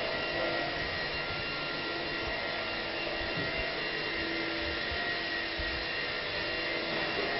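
Steady whirring hum with a few faint constant high tones through it, like a running motor or fan.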